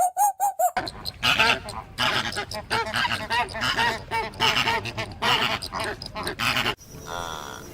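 Domestic animals calling: a few short, high, pitched calls at first, then a dense run of overlapping rough calls for about six seconds. It cuts off suddenly near the end.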